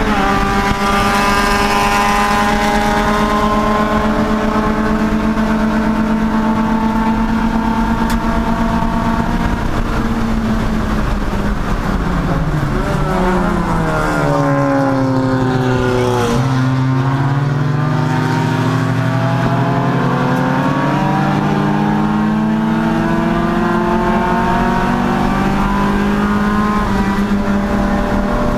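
Race car engine running at high revs under power. About ten seconds in the revs fall over several seconds, then climb steadily again through the rest.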